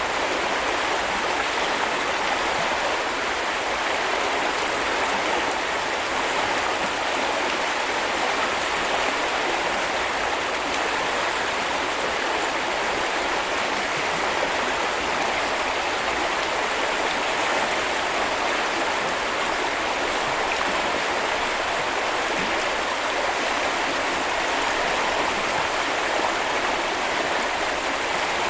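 Small river or brook flowing and splashing steadily, a continuous even rush of water.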